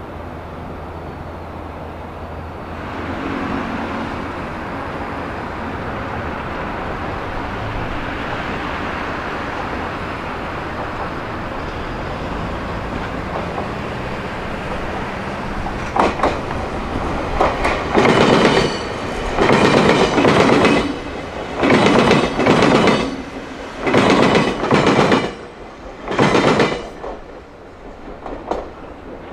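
A passing electric train: a steady rumble builds, then the wheels bang heavily over gaps in the rails in about five clustered groups of clanks, one group per passing bogie pair, before the sound dies away near the end.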